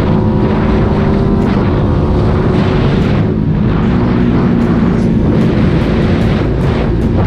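Motorcycle engine running at a steady pitch under wind noise buffeting the microphone.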